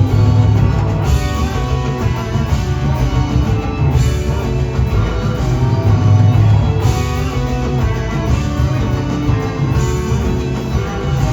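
Live rock band playing an extended jam, with electric guitar lines over a heavy bass.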